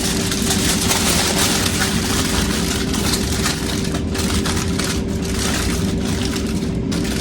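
Digital air fryer's fan running with a steady hum after preheating. Over it comes a loud, crackly rustle of aluminium foil being handled around potatoes, which stops near the end.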